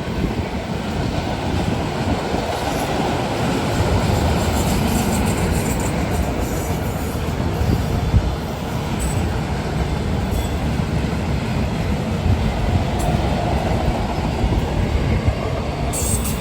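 Freight train cars rolling past close by: a steady, loud rumble of steel wheels on rail.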